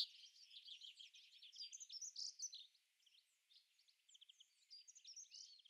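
Faint birdsong of quick chirps and trills. It is denser for the first two and a half seconds, then thins to scattered calls.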